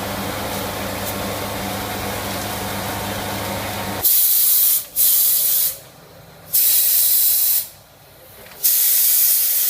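Pneumatic spray gun firing four hissing blasts of about a second each, with short gaps between, as liquid sound-deadening coating is sprayed on. Before the blasts, about four seconds in, there is a steady mechanical hum.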